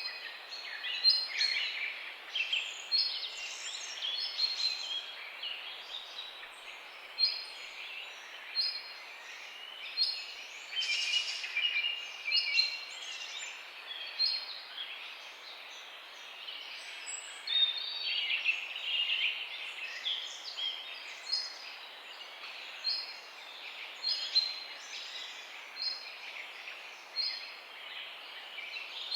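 Several songbirds chirping and singing in a morning chorus: one bird repeats a short high note every second or two while others warble over it, against a steady faint background hiss.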